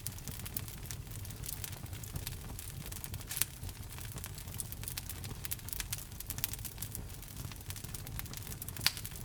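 Wood fire burning in a fireplace: steady crackling over a low rumble of flame, with two louder pops, one about a third of the way in and one near the end.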